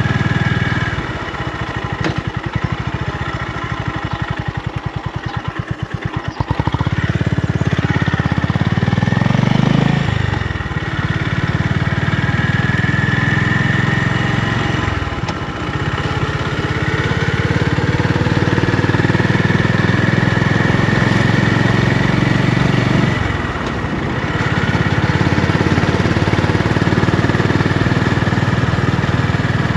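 Honda GB350's air-cooled single-cylinder engine and exhaust running with the throttle varying. For the first few seconds it turns over slowly, its separate firing pulses plainly audible. After that it runs more strongly, with brief dips and changes in pitch about ten, fifteen and twenty-three seconds in.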